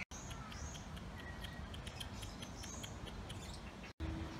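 Caged birds chirping and whistling: quick high chirps repeat about four times a second, mixed with short rising and falling whistles.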